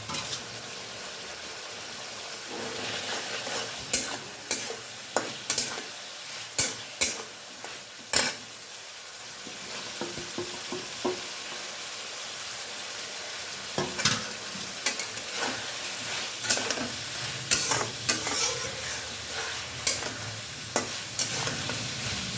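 Fried cauliflower being stirred into a sizzling spice paste in a pan: a steady sizzle with sharp clacks and scrapes of the stirring utensil against the pan, coming in two spells with a calmer stretch in the middle.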